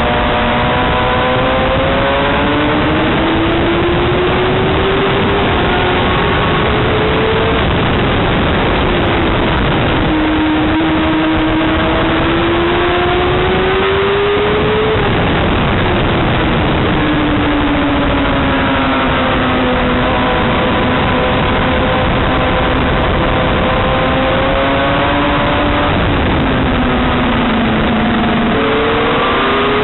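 Motorcycle engine pulling hard, its pitch climbing over several seconds and then dropping back, again and again, under a steady rushing noise.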